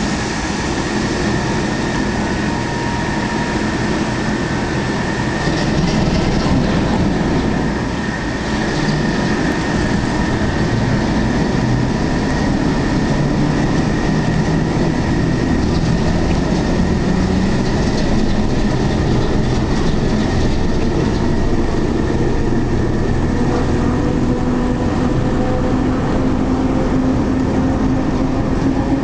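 A pair of diesel shunting locomotives working a train away from the station, their engines running steadily under load. The engine note rises slowly over the last few seconds as they pull harder.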